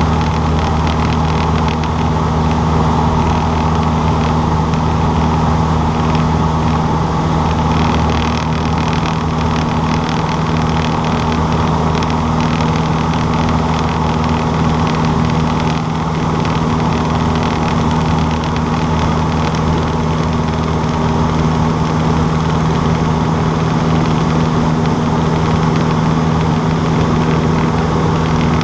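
Cessna 152's four-cylinder Lycoming O-235 engine and propeller running steadily, a constant low hum with no change in pitch.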